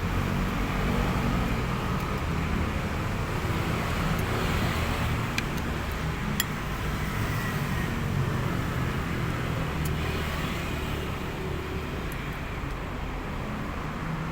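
Steady road-traffic and vehicle engine noise with a low hum, and a few light clicks near the middle.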